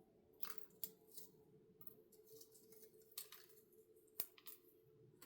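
Faint, irregular rustles and light ticks of small die-cut cardstock pieces being handled and shuffled, with one sharper click about four seconds in.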